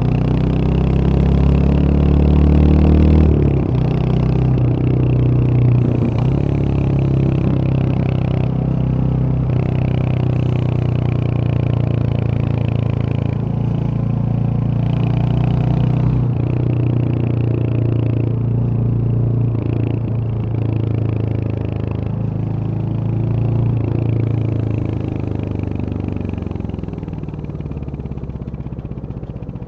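Royal Enfield Hunter 350's single-cylinder engine and exhaust pulling on the road. The revs climb for about three seconds, drop sharply, then hold steady, easing off and getting quieter near the end.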